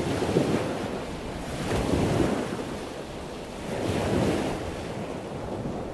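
Ocean surf washing in and out, swelling about two seconds in and again about four seconds in.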